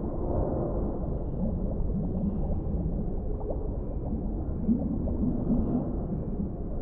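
Deep-sea underwater ambience: a steady, muffled low rumble of water with short bubbling gurgles scattered through it.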